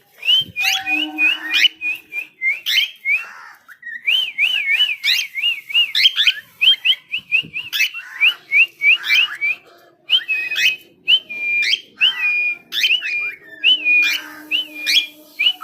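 A bird calling in rapid runs of whistled notes. Some notes waver and some sweep sharply upward, with short breaks between the runs.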